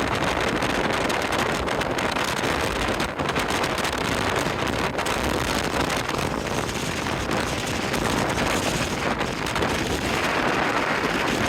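Strong wind buffeting the microphone on the deck of a moving ferry, a steady rushing noise with the ship and sea underneath, blown up by an approaching typhoon.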